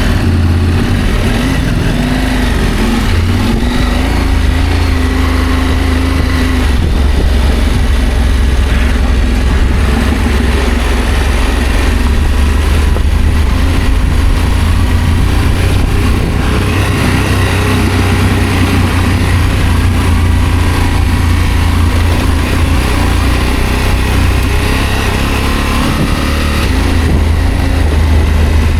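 Adventure motorcycle engine running steadily while under way: a low drone under a steady rush of noise.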